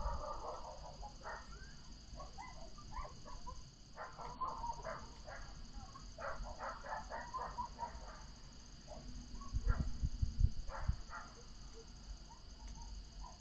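Distant animal calls, runs of short, quick calls, over faint outdoor hiss, with a low rumble of wind on the microphone about ten seconds in.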